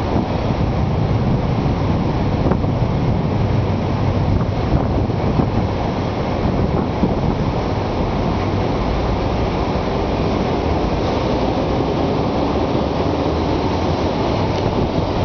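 Steady, loud rushing of storm wind buffeting the microphone, heavy in the low end, with no distinct thunderclap.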